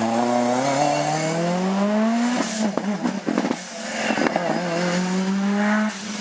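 Lancia Delta S4 Group B rally car's twin-charged four-cylinder engine accelerating hard, its note rising twice. Between the two climbs, around two and a half to three and a half seconds in, comes a cluster of sharp cracks and pops. The note drops away near the end.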